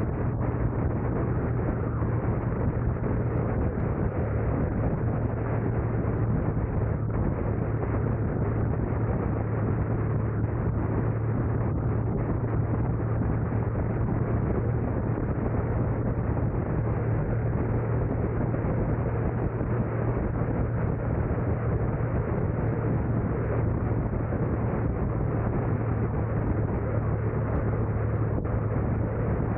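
Car driving along: steady road and engine noise, an even rushing sound over a constant low hum, with no sudden events.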